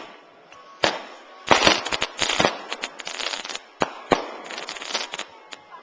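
Fireworks going off: a sharp bang about a second in, then a rapid string of bangs and two stretches of dense crackling, with two more single bangs between them.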